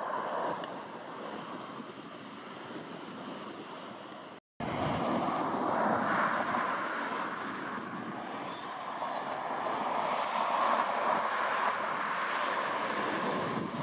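Jet airliner engine noise, a steady rush with wind on the microphone. The sound cuts out for a moment about four and a half seconds in, returns louder, swells a little later and eases off near the end.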